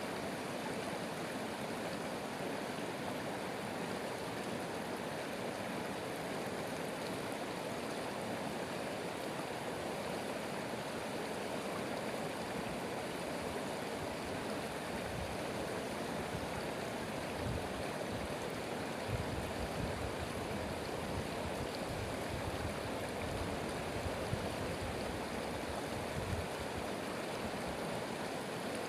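Stream water flowing steadily, with a few deeper gurgles in the second half.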